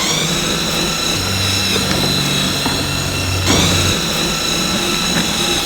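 Electric self-propel drive motor of an EGO 21-inch 56-volt cordless mower running with a steady whine, spinning up as the drive lever is squeezed and rising in pitch again about three and a half seconds in.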